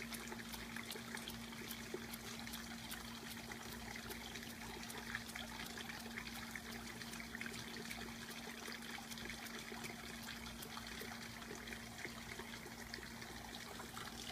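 Running water trickling and splashing steadily, with many small droplet ticks, over a faint steady low hum.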